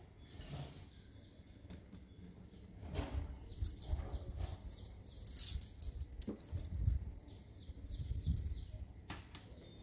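Small birds chirping in short repeated high notes, coming in three runs of several chirps each. Over this come a few light clicks and soft knocks as a stack of glass bangles is handled.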